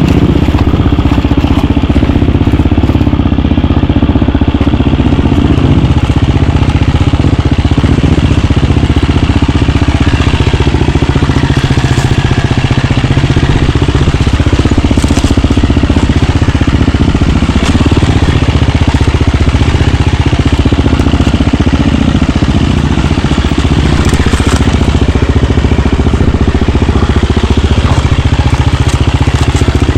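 KTM 350 four-stroke single-cylinder dirt bike engine running loudly and steadily while riding, with a few sharp clicks.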